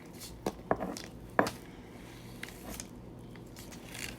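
Eating and food-handling sounds at a table: three sharp clicks in the first second and a half, then faint scattered ticks and rustling.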